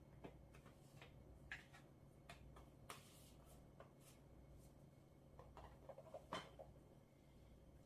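Near silence: a low room hum with scattered faint clicks and soft rustles, the loudest click about six seconds in.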